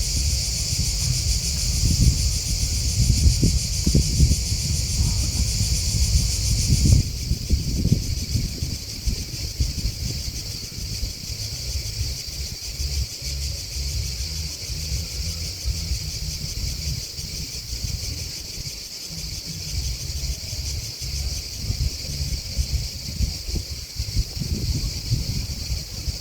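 A steady, high-pitched chorus of chirping grasshoppers and crickets over a fluctuating low rumble. About seven seconds in, both the chorus and the rumble drop somewhat in level.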